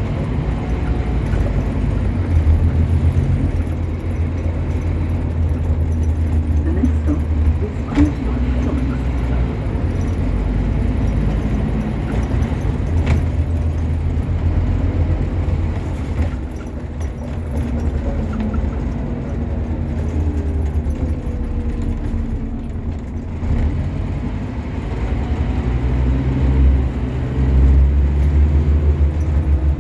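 Scania N230UB OmniCity single-deck bus under way, its engine making a heavy low drone that swells and eases as it pulls away and slows. Faint rising and falling whines sit over the drone, and two sharp knocks come about eight and thirteen seconds in.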